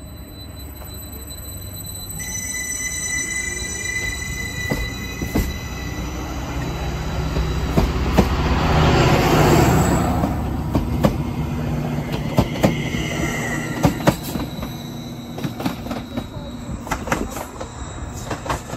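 A diesel-electric Class 755 bi-mode multiple unit pulling away and running past on diesel power: the engine rumble builds to its loudest as the middle power-pack car passes about nine seconds in, over steady high whining tones. As it draws away, its wheels click over the rail joints in a run of sharp clicks.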